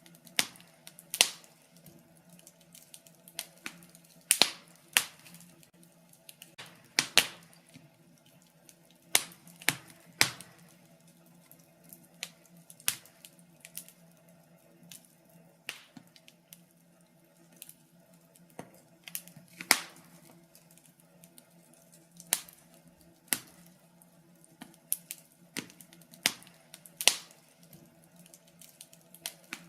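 Wood fire burning in a fireplace, crackling with irregular sharp pops and snaps, a loud one every second or few, over a faint low steady hum.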